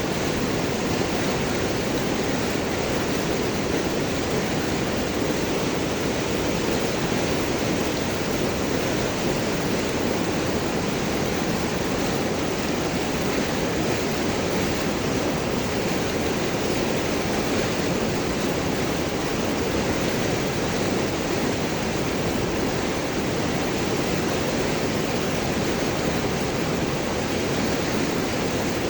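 River water rushing and gurgling over large rocks, a steady, even rush with no breaks.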